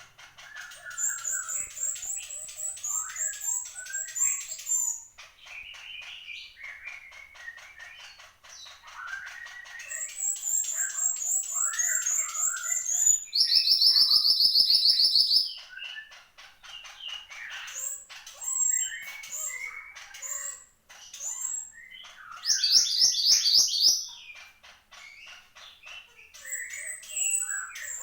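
Mantenan gunung birdsong in full, persistent song: a busy run of chirps, twitters and warbles, broken by a loud, fast trill about halfway through and another near the end.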